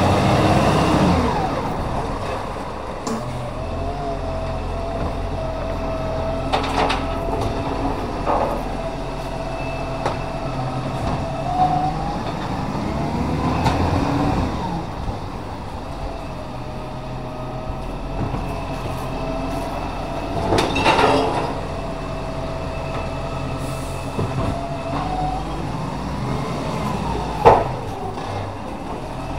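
Recycling garbage truck working: its engine runs under a steady hydraulic-type whine, the revs rise and fall a few times, and several sharp knocks ring out, the loudest near the end.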